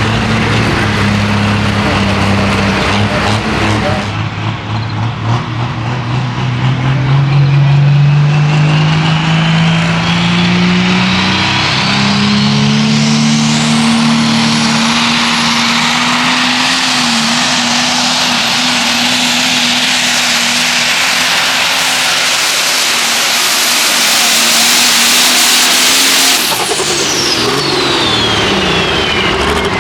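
Turbocharged diesel pulling tractor making a full pull: the engine revs up over several seconds and a high turbo whine climbs and holds through most of the run. Near the end the engine is throttled off and the whine winds down quickly.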